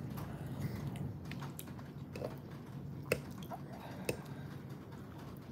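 Close-up chewing of a mouthful of chicken and noodles, with a few sharp clinks of a metal fork against a ceramic plate, the loudest about three seconds in.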